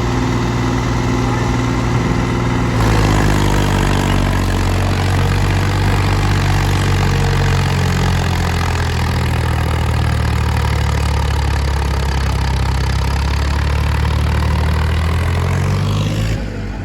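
Heavy diesel engine running steadily. About three seconds in it gets louder and its pitch falls over the next couple of seconds, then the level drops near the end.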